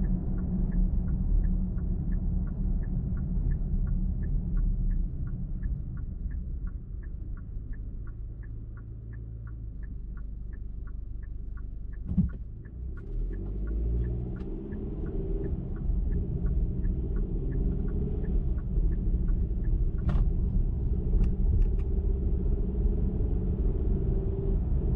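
Car road noise heard from inside the car, with a steady ticking about three times a second while the car slows. A single thump comes about halfway through. The ticking stops, and the engine note rises as the car speeds up again.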